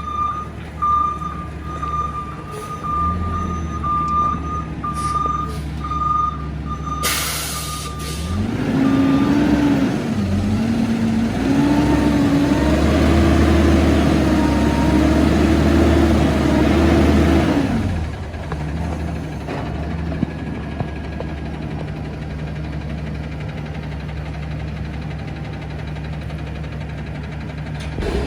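Peterbilt garbage truck backing up with its reverse alarm beeping steadily. About seven seconds in there is a sharp air-brake hiss, then the engine revs up and holds high for about ten seconds before dropping back to a steady idle.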